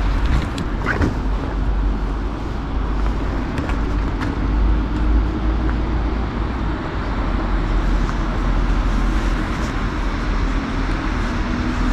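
Steady city traffic rumble, with a faint engine hum that holds through most of it and a few light clicks near the start.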